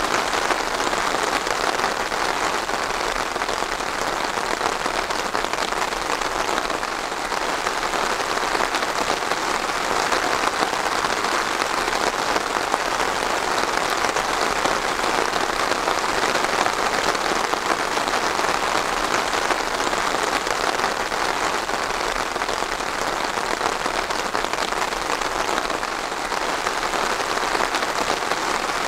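Steady rain falling on a surface, an even hiss of many drops with no lulls.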